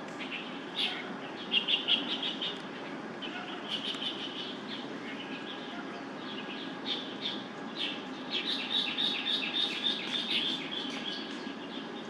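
Small birds chirping: scattered short, high chirps and quick runs of repeated notes, busiest in the second half, over a steady low background hum.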